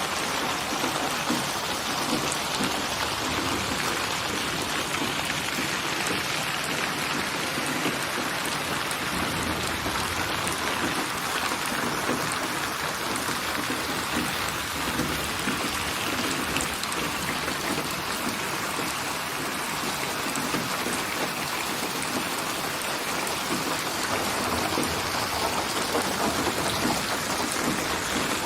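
Steady rain falling and pattering on surfaces, with a low rumble of thunder building through the middle.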